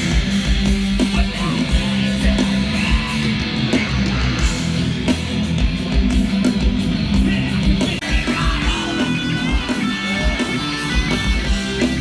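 Hardcore punk band playing live and loud: distorted electric guitars over pounding drums.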